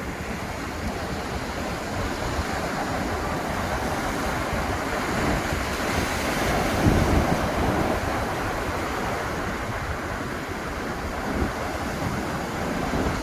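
Ocean surf breaking on a beach in a steady wash, swelling to its loudest about halfway through as a wave breaks. Wind buffets the microphone.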